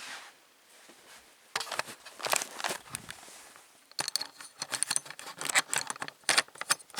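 Handling noise: a run of sharp clicks and light rattles, sparse at first and denser in the second half.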